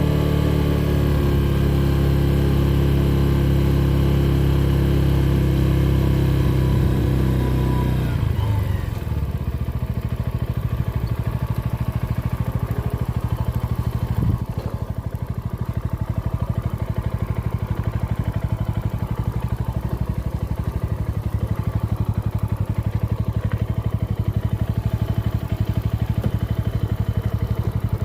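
Motorcycle engine running at a steady pace, then dropping in pitch about eight seconds in as the bike slows. It carries on at low revs for the rest of the time, with one brief knock partway through.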